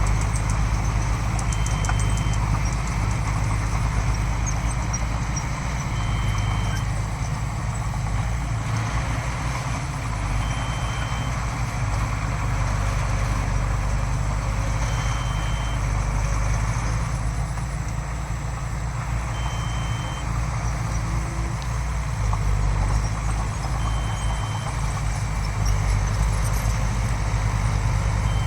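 Heavy diesel earthmoving machinery running steadily with a deep rumble. A short, high beep repeats about every four and a half seconds.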